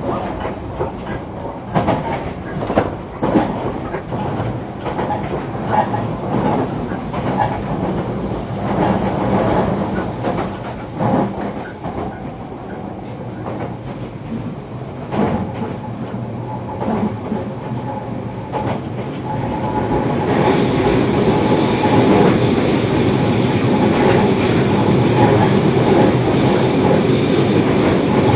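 Cabin running sound of a JR Kyushu 305 series electric train, heard from inside motor car MoHa 305-104: wheels clicking and knocking over the track under a steady rumble. About two-thirds of the way through, the noise grows louder and brighter, with a steady high whine.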